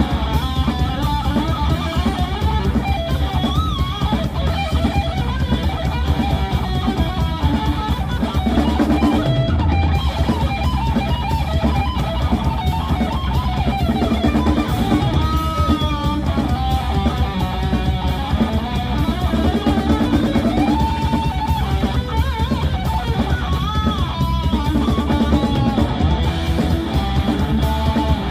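Rock band playing live: an electric guitar lead with bent, wavering notes over bass and a drum kit, with no singing.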